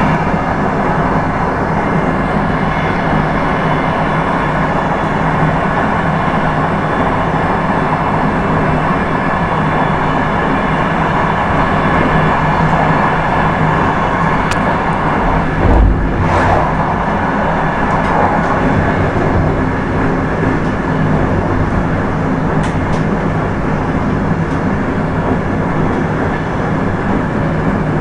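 Express train running at speed on the track, heard from inside the train as a steady rumble of wheels and rails. There is one brief thump about sixteen seconds in.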